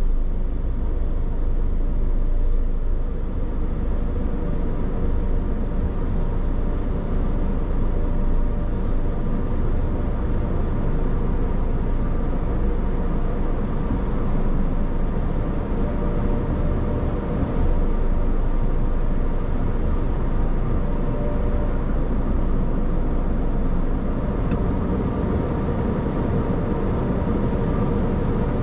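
Steady low rumble of a car, unchanging throughout, with faint ticks above it.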